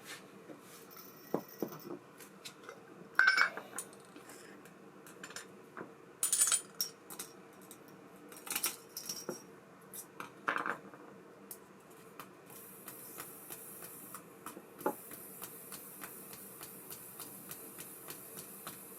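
Small metal parts of an ABU Ambassadeur 5500C baitcasting reel clinking and clicking as they are handled during disassembly and cleaning, in scattered light knocks. About two-thirds of the way through, a steady high hiss sets in and continues.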